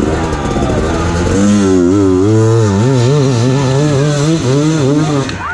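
Dirt bike engine revving in quick, repeated throttle blips, its pitch rising and falling about three times a second and growing stronger about a second in.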